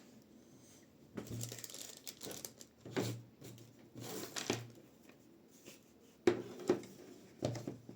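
Handling noises: irregular rustling with several sharp clicks and taps, as of things being moved and set down on a table.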